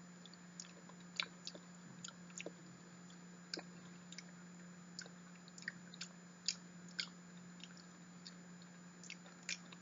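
Close-up wet mouth sounds of chewing soft, mushy durian flesh: scattered small clicks and smacks, a few each second, with a faint steady hum underneath.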